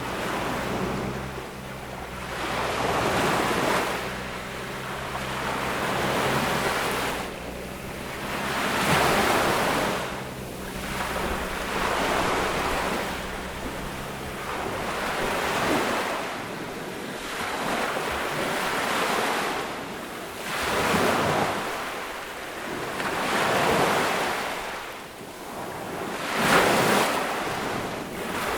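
Small ocean waves breaking and washing up a beach, each surge swelling and fading every two to three seconds, the strongest near the end. A low rumble sits under the first half and stops about halfway through.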